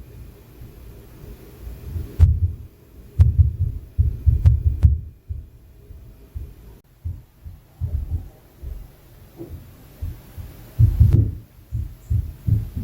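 Irregular dull thuds from the apartment upstairs, carried through the ceiling as low booming impacts. They come in clusters, with a few faint sharp knocks among them. This is the kind of inter-floor impact noise that neighbours below complain of.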